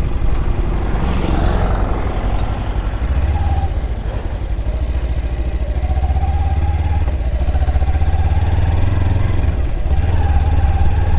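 Kawasaki Ninja 300's parallel-twin engine running steadily at low revs as the motorcycle is ridden, with a brief hiss about a second in.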